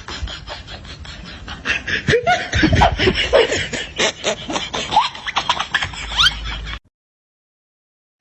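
People laughing in rapid, repeated bursts, cutting off abruptly about seven seconds in.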